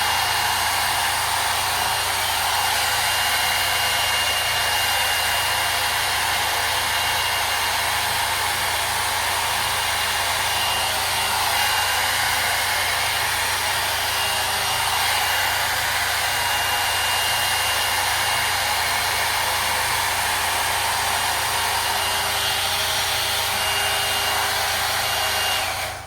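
Hot-air brush (hair dryer and volumizer) running steadily on its hot setting: a rush of blowing air with a faint high whine, switched off just before the end.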